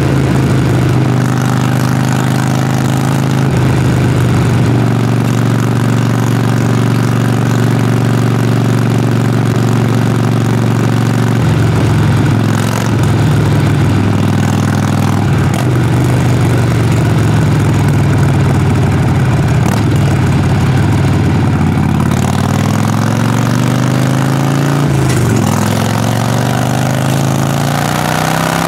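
Harley-Davidson Sportster Forty-Eight's air-cooled 1200 cc V-twin exhaust while riding, running at a fairly steady loping pitch with small shifts in engine speed. Over the last few seconds the engine note climbs steadily as the bike accelerates, with a short drop partway through the climb.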